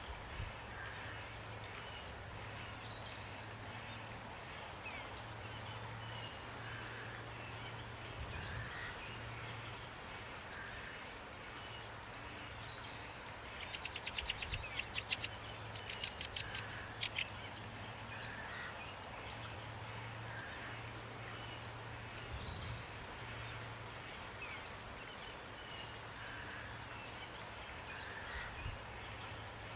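Small songbirds chirping repeatedly in short, high, sweeping notes, with a fast rattling trill about halfway through, over a steady hiss of rain and a low steady hum.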